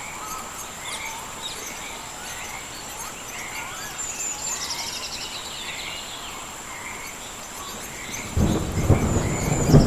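Rainforest ambience: a steady high insect drone with repeated chirping frog and bird calls over a hiss of rain. About eight seconds in, a loud low rumble of thunder sets in and builds.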